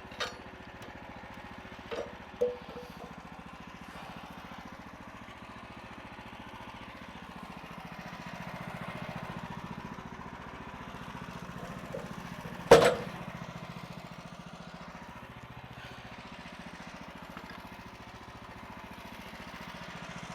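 A bandsaw mill's 14 HP Kohler engine idling steadily, with a few sharp knocks and one loud bang about two-thirds of the way through as the log is turned over on the mill.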